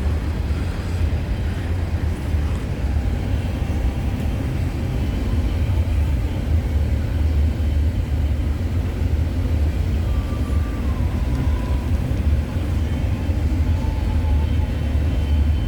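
CN freight train's cars rolling past, a steady low rumble of wheels on the rails.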